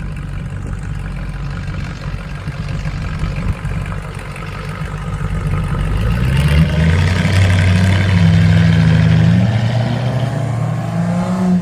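Car engine rumbling, then revving up and pulling past about halfway in, its note climbing and getting louder before easing off, with another rise near the end.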